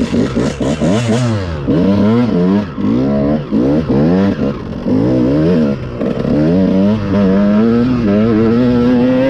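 Dirt bike engines revving on a motocross track, the pitch rising and falling again and again as the throttle is worked, then settling into a steadier, slowly climbing drone about halfway through.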